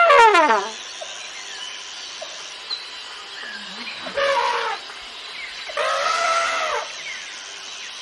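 Cartoon elephant trumpet sound effect: a held brassy note that slides steeply down in pitch, ending less than a second in. Then birds chirp in an outdoor background, with two short pitched animal calls, one about four seconds in and a longer one about six seconds in.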